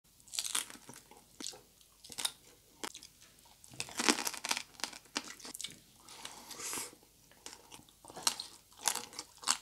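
A person biting and chewing crispy deep-fried pork belly (lechon kawali): irregular crunches of the crackling skin with wet chewing between them, loudest about four seconds in and again near the end.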